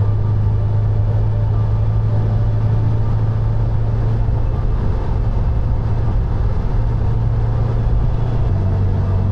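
A 2021 Subaru WRX's turbocharged flat-four drones at a steady cruise over tyre and road noise while driving. The engine note drops slightly in pitch near the end.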